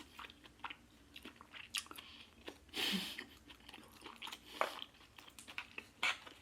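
Close-miked chewing of food: many small wet mouth clicks and smacks, with a louder, noisier mouth sound about three seconds in.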